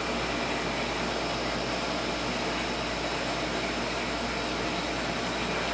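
Steady hum and hiss of background noise, even throughout with no separate knocks or pours, like an air conditioner or fan running in the room.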